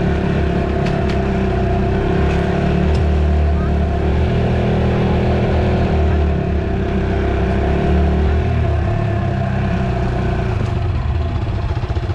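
Dirt bike engine running steadily while riding, then dropping to lower, choppier revs from about eight seconds in.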